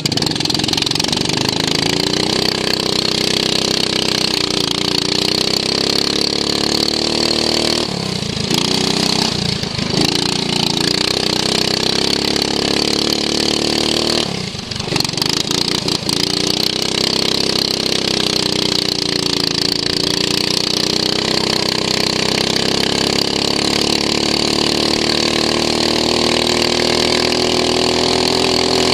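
Racing lawn mower engine heard from onboard, running hard at high revs. The pitch dips briefly as the throttle comes off, about 8, 10 and 15 seconds in, then picks up again and climbs steadily near the end.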